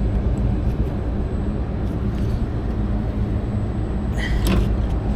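Steady low machinery hum, with a brief knock or rattle about four seconds in.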